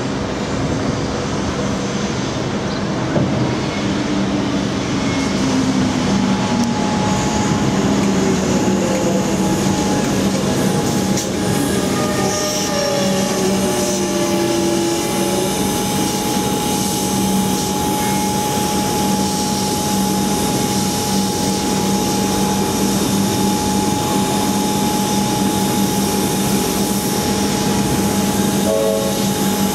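Metro Trains Melbourne electric suburban train pulling into the platform and stopping: a falling whine as it slows, a few short wheel squeals partway through, then a steady electrical hum while it stands at the platform.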